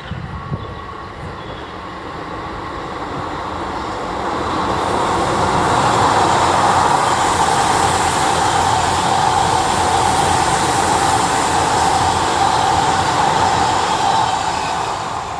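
Odakyu 5000-series electric commuter train passing: the running noise builds over a few seconds, stays loud for about eight seconds, then fades near the end.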